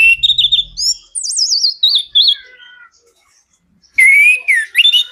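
Orange-headed thrush (anis kembang) singing a loud, varied song: a run of rapid warbled phrases with quick up-and-down trills, a pause of about a second, then another burst of phrases about four seconds in.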